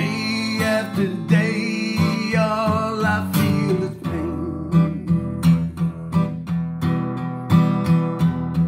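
An acoustic guitar strummed in a steady rhythm, with a voice singing a wavering, held line over it during the first three seconds.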